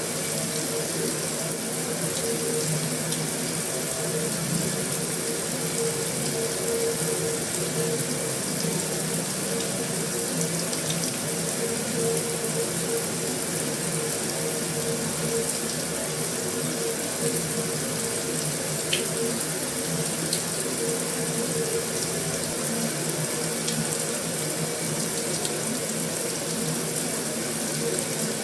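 Heavy rain falling steadily on a metal roof: an even, unbroken hiss with a few faint ticks of single drops.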